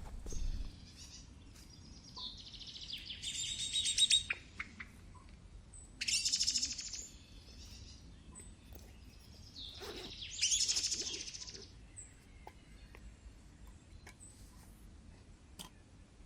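Bird calling in three loud bouts of rapid, high-pitched chattering trills, a few seconds apart.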